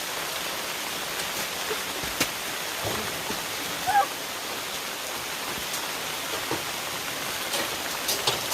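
Steady heavy rain falling, an even hiss with scattered sharper drop ticks. About four seconds in there is a short, high-pitched sound.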